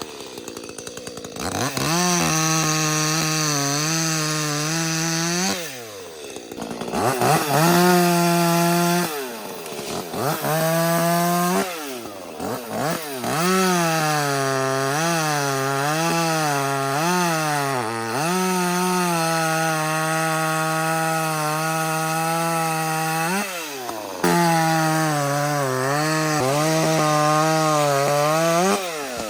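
Ported 30cc Echo CS-310 two-stroke chainsaw cutting wood at full throttle, its pitch sagging and recovering as the chain loads up in the cut. The throttle is let off briefly several times and the engine falls away, then revs back up for the next cut.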